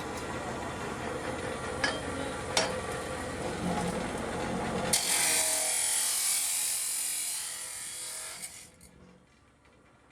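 A power tool working: steady rough noise with a couple of sharp clicks, changing abruptly about five seconds in to a harsher, hissing high whir, which stops shortly before the end.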